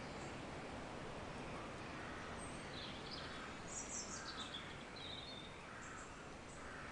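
Nature-sound ambience: birds chirping, with a cluster of short high calls and trills in the middle, over a steady soft hiss.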